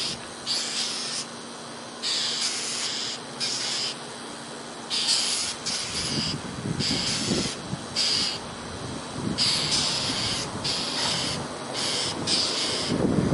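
Small birds giving harsh, hissing scolding calls over and over at a hawk on its kill, each call a short rasp of under a second, coming in quick irregular runs.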